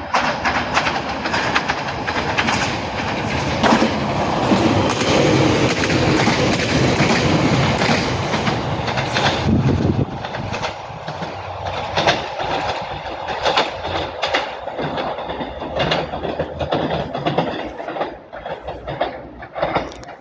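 Siemens Desiro multiple unit running along the track as it arrives, a loud rumble with wheels clicking over rail joints. About halfway through the deep rumble falls away suddenly, leaving a lighter clatter of wheels over the joints as it slows.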